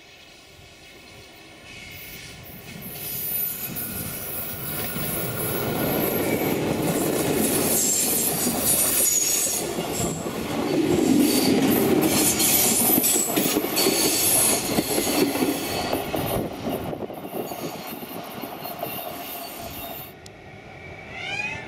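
Regional electric multiple-unit train passing close by, building to a loud rumble of wheels on rail with high squeals from the wheels on the curve, then fading away.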